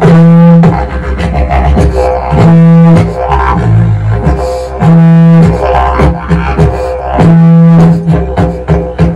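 Didgeridoo played continuously: a low drone with shifting overtones and vocal rhythm, broken by a loud held note that comes back about every two and a half seconds.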